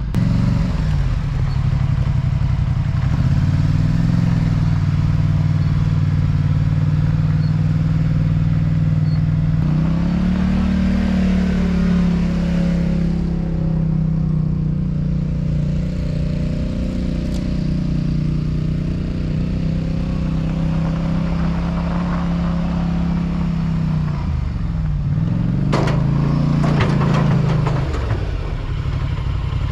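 Polaris Sportsman 850 ATV's twin-cylinder engine running under throttle. Its pitch steps up near the start and again about ten seconds in, then drops and rises twice near the end as the throttle is eased off and opened again.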